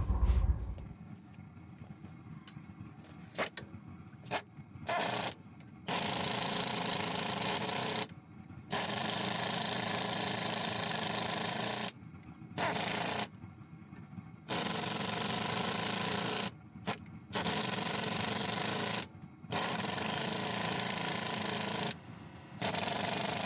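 Compressed air hissing from a truck's air line in repeated blasts of one to four seconds, each starting and stopping sharply, with short quiet gaps between.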